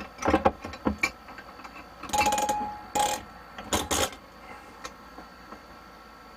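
Clicks and clatter of hand tools and plumbing fittings being handled. A quick run of clicks and knocks comes first, then a short rattling scrape about two seconds in, then a few more knocks around three to four seconds.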